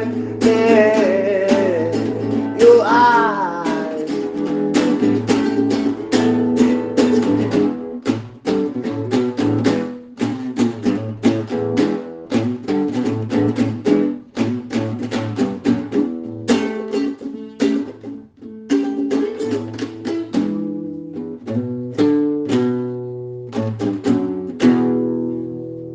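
Acoustic string instrument strumming chords in a steady rhythm, with a short wordless sung note about three seconds in; near the end a last chord is left to ring out and fade.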